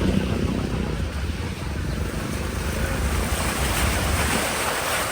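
Wind buffeting the microphone with an uneven low rumble, and a rushing hiss that swells in the second half.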